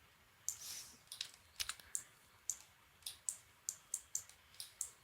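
Computer mouse and keyboard clicks: about a dozen short, sharp clicks at an uneven pace, starting about half a second in.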